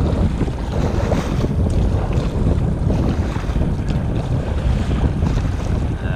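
Strong wind buffeting the microphone in a windstorm, a steady heavy rumble, with choppy lake water splashing around a kayak.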